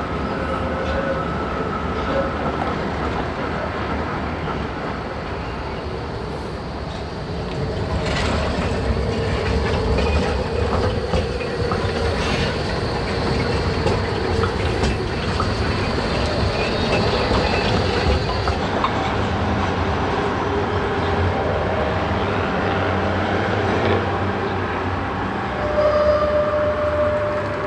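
Zürich city tram running along its rails through a street stop: a steady rumble of wheels on track with thin squealing tones. It grows louder about eight seconds in and stays loud to the end, with a short squeal near the end.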